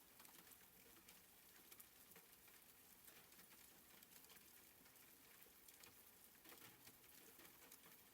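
Faint soft rain: a steady hiss with many light, scattered drop ticks.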